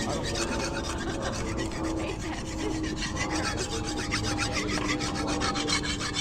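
A hand tool scraping rapidly back and forth over fresh concrete, in quick repeated rasping strokes, with a faint steady machine hum underneath.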